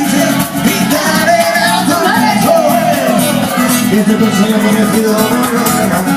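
Latin music performed live: a singer's voice gliding over a steady accompaniment of guitar and shaker percussion.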